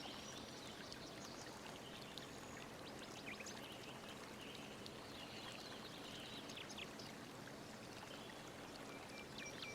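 Faint steady hiss of room tone, with a few faint, short high ticks.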